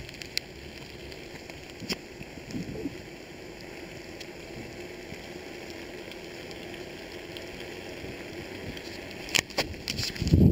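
Steady hiss of rain falling, broken by a few sharp clicks, with a cluster of them near the end.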